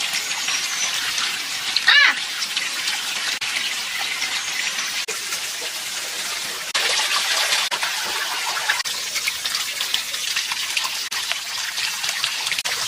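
Water running steadily, with a brief high wavering sound about two seconds in; the flow gets a little louder about seven seconds in.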